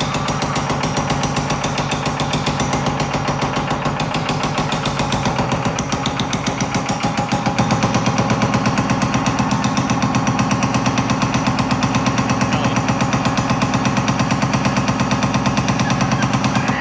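Power hammer running at a fast, steady stroke, hammering a sheet-metal trunk gutter panel as it is moved back and forth. It gets a little louder about halfway through.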